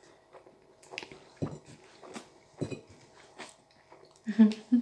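People eating curry buns face-first without hands: wet biting, chewing and lip-smacking in a few short bursts, then a short, loud, muffled vocal sound near the end.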